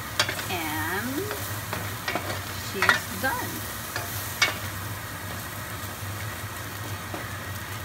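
Chicken liver and spring onions sizzling in a stainless steel pan while a wooden spatula stirs them. The spatula knocks and scrapes against the pan a few times, mostly in the first half.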